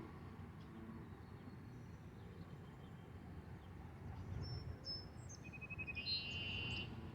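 A small bird calling: a few faint, thin, high notes, then from about four seconds in a brighter phrase of quick repeated notes and held high tones. Under it runs a low outdoor rumble.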